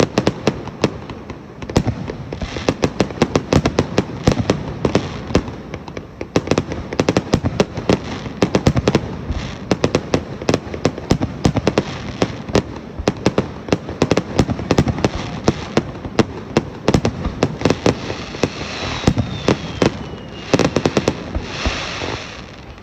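Fireworks display in a rapid, continuous barrage: many bangs and crackles a second overlapping without a break. About nineteen seconds in, a thin whistle falls in pitch through the bursts.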